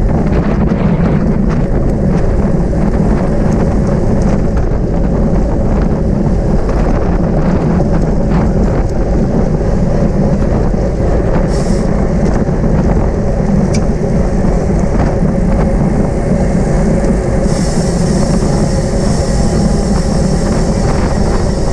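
Wind noise on the microphone of a camera riding on a bicycle at racing speed: a steady, loud low rumble with no breaks. A higher hiss joins it for the last few seconds.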